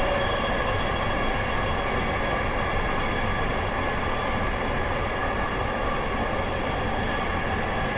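Dhaka Metro Rail (MRT Line 6) train running between stations, heard from inside the carriage: a steady running rumble and rail noise with several steady high-pitched tones over it.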